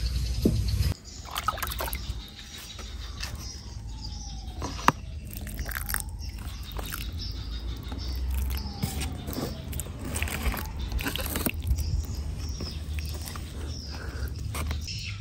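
Birds chirping in the background, with many scattered light clicks and ticks and a few brief sliding tones.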